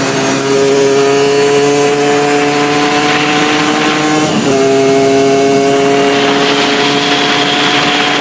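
Suzuki RG80 two-stroke single-cylinder engine with an open intake running on the bike, pitch slowly climbing. About four seconds in, the sound breaks briefly and settles a little lower.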